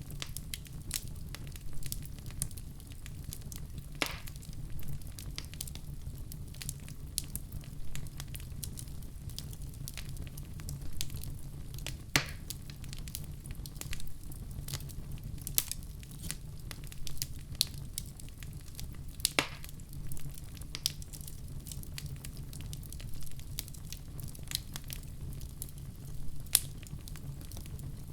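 Wood fire burning in a fireplace: a steady low rumble of flames with irregular crackles and a few louder pops.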